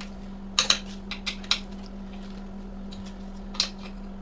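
Several short metallic clicks and clinks of hand tools and small screws being handled: a quick cluster between about half a second and a second and a half in, then single ones near three seconds and three and a half seconds, over a steady low hum.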